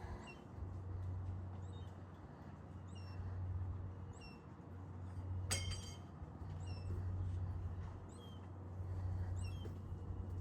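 Short high chirping animal calls, each sliding down in pitch, repeating irregularly about once a second, over a steady low rumble that swells and fades; a single sharp click about halfway through.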